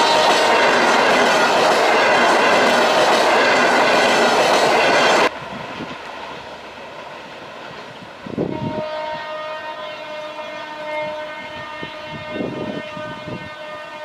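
Passenger coaches rolling past close by, a loud steady rush of wheel and rail noise that cuts off about five seconds in. Then a diesel locomotive approaching sounds its horn, a steady multi-note blast held from about eight seconds in.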